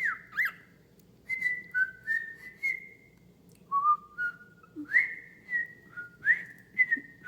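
Pet bird whistling: a string of short, clear whistled notes, some swooping upward and some held, stepping up and down in pitch with a brief pause partway through.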